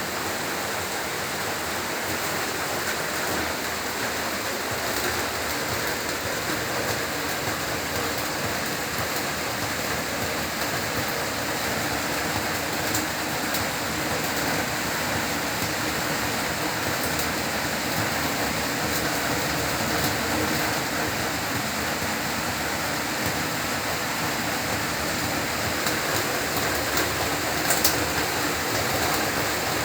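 Heavy rain falling steadily, a dense even hiss of drops hitting surfaces, with a few sharper drip impacts, one louder near the end.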